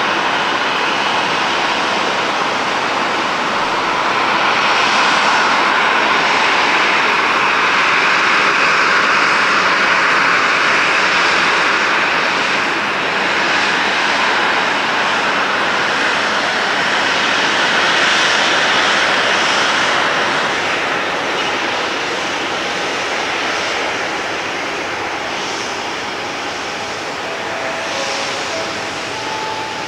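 Jet engine noise from a landing Boeing 737-800's CFM56 turbofans, a steady roar that swells a few seconds in and slowly fades toward the end.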